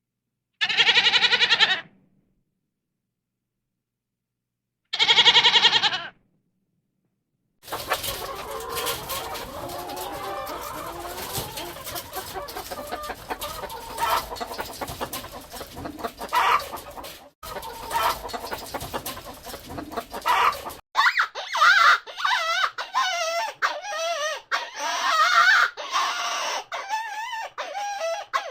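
Rooster crowing twice, each crow a long call of over a second. This is followed by chickens clucking over a steady noisy background, then a rapid run of short hen calls.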